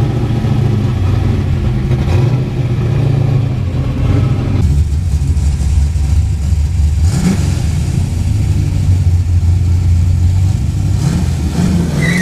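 Car engine and exhaust running steadily under way, a low continuous engine note that drops lower and grows heavier about five seconds in.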